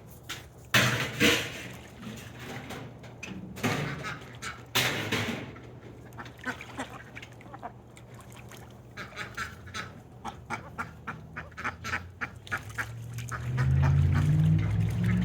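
Domestic ducks quacking: two loud quacks, then a long run of short, rapid quacks. Low music starts near the end.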